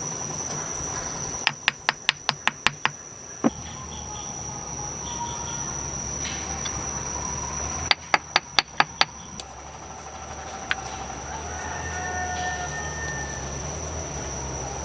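Two quick runs of sharp knocks, about five a second, six or seven strikes each, with a single knock after each run. A steady high insect trill runs underneath.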